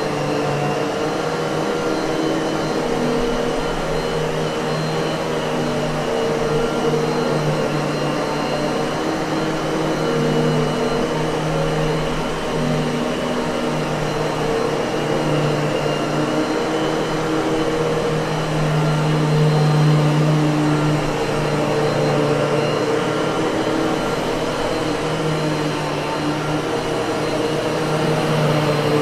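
Miele vacuum cleaner running steadily: a continuous motor hum over a rush of air, with slight slow wavers in pitch and a small swell in loudness about two-thirds of the way through.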